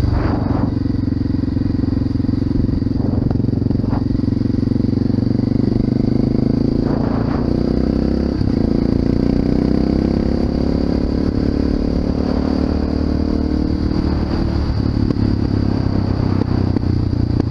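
Honda FMX 650's single-cylinder engine running through an Arrow exhaust while riding, its pitch drifting gently up and down, with several brief rushes of noise.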